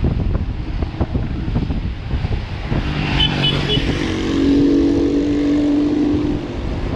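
City street traffic heard from a moving bicycle: a constant low rumble of wind and road noise, a motor vehicle passing with a steady engine tone in the second half, and three quick high beeps about three seconds in.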